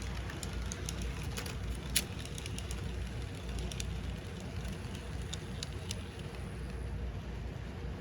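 Walthers HO-scale SD70ACE model locomotive running on the track on DC power: a steady low rumble of motor and wheels, with scattered light clicks and one sharper click about two seconds in.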